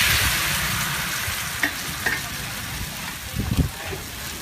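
Food sizzling on a hot pan. The sizzle is loudest at the start and slowly dies down, with a few clinks and knocks of a utensil against the pan.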